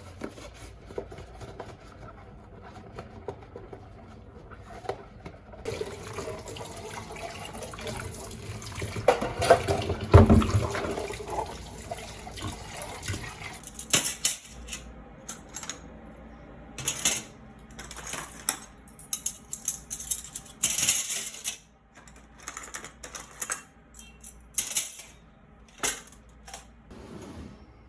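Water running from a kitchen tap into a sink for several seconds, then a run of sharp clinks and knocks of items being handled.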